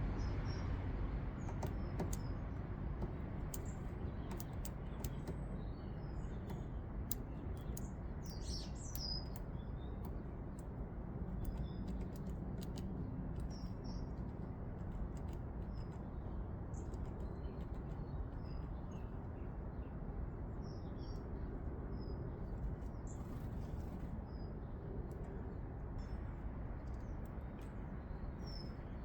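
Small garden birds giving short, high chirps scattered throughout, with occasional sharp clicks, over a steady low background rumble.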